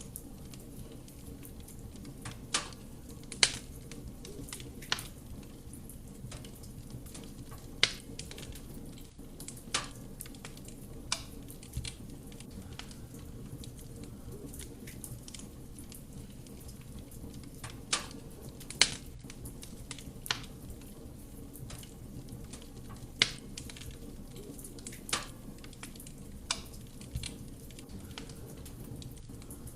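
Wood fire burning in a fireplace: a steady low rumble of flame with sharp, irregular crackles and pops from the burning wood, about a dozen in all.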